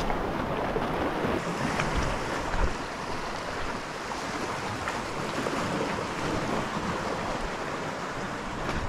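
Steady rush of wind on the microphone and sea water washing around a small boat.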